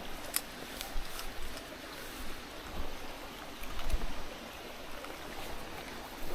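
Mountain stream flowing with a steady rush of water. A few sharp clicks come in the first second or so, and some low knocks come near the middle.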